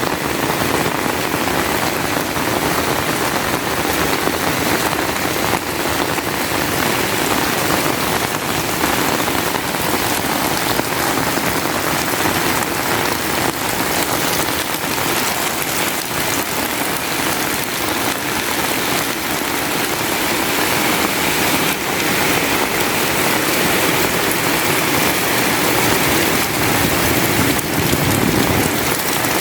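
Heavy rain falling steadily, a dense, even hiss of drops striking surfaces.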